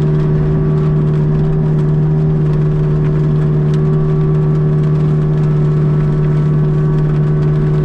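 Mini excavator's engine and hydraulic forestry mulcher head running at a steady speed, a constant low drone with a higher hum over it.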